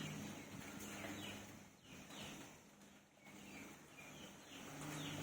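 Faint outdoor ambience: small birds chirping in short, repeated descending calls over a steady background hiss.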